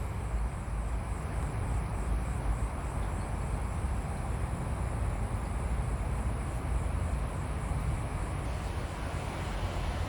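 Steady outdoor ambience: a low rumble with an even hiss over it, no distinct events.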